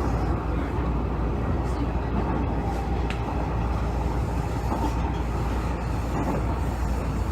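Inside a Hanshin 5700 series 'Jet Car' electric commuter train car, running between stations: a steady rumble of wheels on the rails and a low drone from the car.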